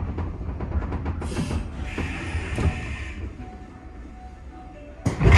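Railway station sounds around a train standing at the platform: a steady low rumble, a short hiss about a second in, a higher squeal-like band from about two to three seconds, and a loud sudden thump near the end.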